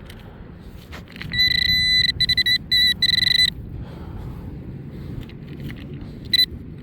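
Handheld metal-detecting pinpointer, a Nokta Accupoint, beeping in a run of quick, loud, high-pitched pulses from about a second in until past three seconds, then once briefly near the end, signalling that it is close to a buried metal target. Wind rumbles on the microphone underneath.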